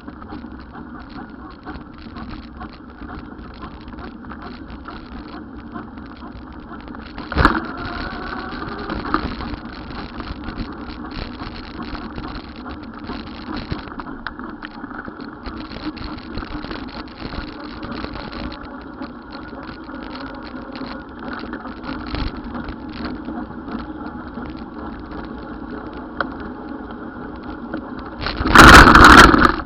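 Steady vehicle and road noise, with a sharp knock about seven seconds in and a loud, brief burst near the end.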